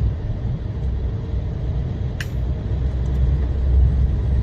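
Steady low rumble of a truck's engine and road noise, heard from inside the cab while driving, with one brief click about two seconds in.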